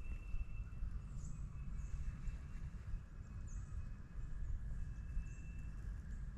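Low, uneven wind rumble on the microphone, with a thin, high held whistle that comes and goes and a few faint, short, high chirps from birds.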